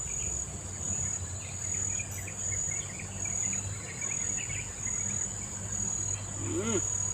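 Steady high-pitched insect trilling over the low rush of a fast-flowing river, with a brief vocal sound near the end.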